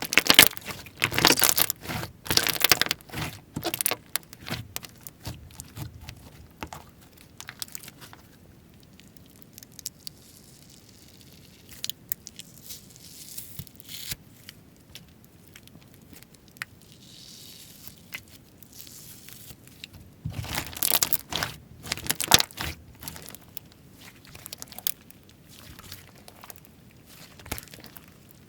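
Hands working slime: clusters of dense sticky clicks and pops, loudest in the first few seconds and again about twenty seconds in, with quieter scattered squishing between.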